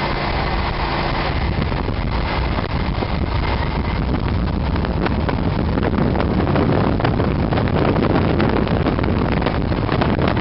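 Motorcycle engines running, a steady loud rumble with an uneven flutter.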